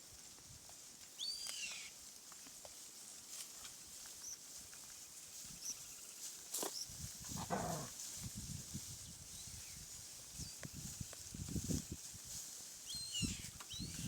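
Farm-animal sounds: a single falling call about halfway through, short high chirps near the start and again near the end, and low uneven rumbling and thumps in the second half.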